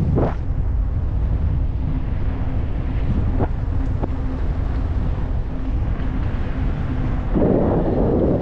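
Wind buffeting the microphone of a moving e-bike: a steady low rumble with a faint steady hum under it, and a louder gust of noise about seven seconds in.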